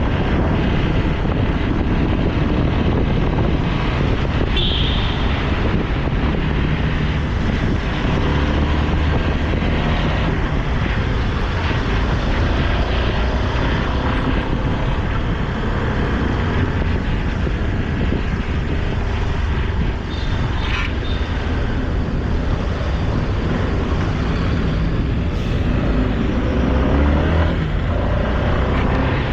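Motorcycle ridden at road speed: a steady engine drone whose pitch shifts a little with the throttle, under a loud even rush of noise.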